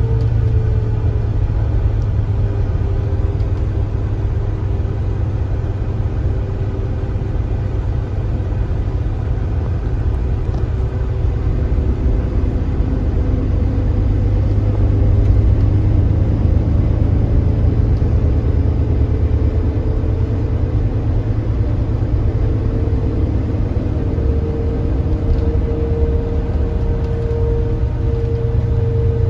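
Kia Granbird Sunshine coach's engine running under way: a strong steady low rumble with a thin whine over it. The whine drops in pitch at the start, climbs again from about twelve seconds in, and is loudest near the end.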